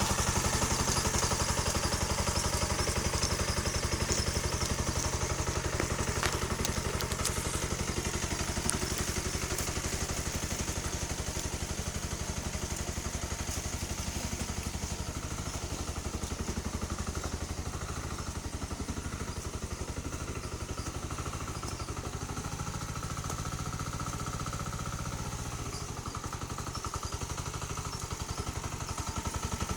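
Tractor engine running steadily under way, a little quieter through the middle stretch.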